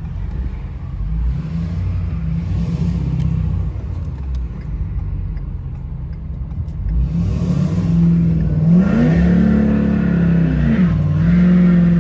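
Pickup truck engine running and then revving under load, with its transmission failing. From about seven seconds in it grows louder and the engine pitch climbs and falls back a couple of times.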